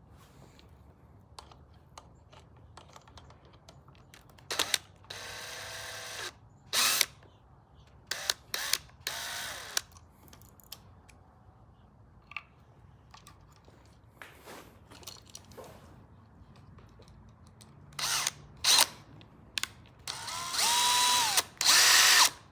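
Power drill run in several short bursts on screws, its motor whirring up and falling off in pitch, with sharp clicks between the runs. The longest and loudest run comes near the end.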